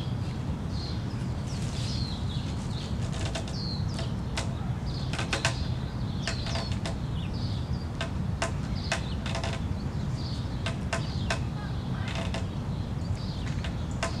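Birds chirping over and over in short, sharp calls above a steady low rumble.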